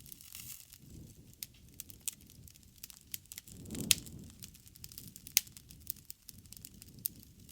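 Bonfire burning: wood crackling with irregular sharp pops over a soft low flutter of flames, which swells for a moment about halfway through, with two loud snaps near the middle.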